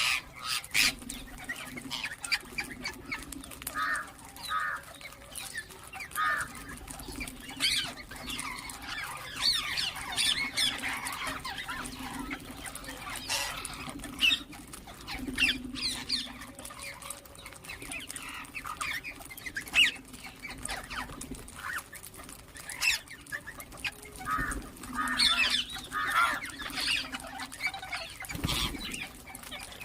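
Ringneck parakeets squawking and chirping: many short, sharp calls, with a few quick runs of repeated notes, over a steady low hum.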